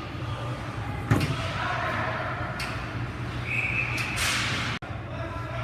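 A single sharp bang against the rink boards about a second in, over a steady arena din of spectators' voices.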